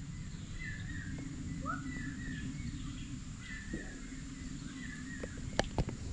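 Repeated short bird chirps over a steady low outdoor rumble and a thin steady high hum, with a few sharp clicks near the end.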